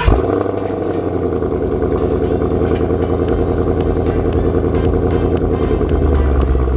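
Car engine starting and then running steadily, getting slowly louder, with a heavier low rumble near the end.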